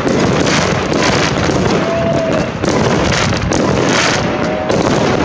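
Aerial fireworks display: shells launching and bursting in a rapid, unbroken barrage of bangs, with a couple of short whistles about two seconds in and near the end.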